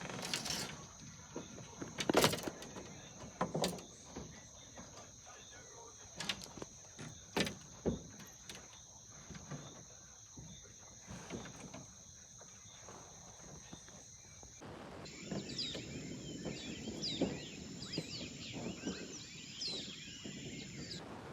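A steady high insect buzz with scattered knocks and clatter. About fifteen seconds in it switches abruptly to many birds chirping over a soft hiss.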